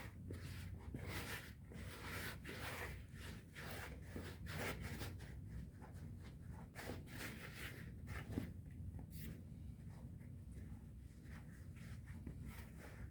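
Faint food-preparation handling sounds: short, irregular rubbing and scraping strokes over a low steady background hum.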